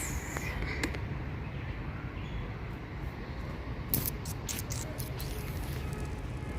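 Background ambience of distant voices over a steady low rumble. A few sharp clicks come about four to five seconds in.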